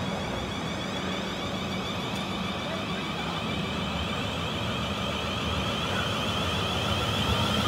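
Electric multiple-unit train approaching: a steady rumble with a faint high hum, growing gradually louder.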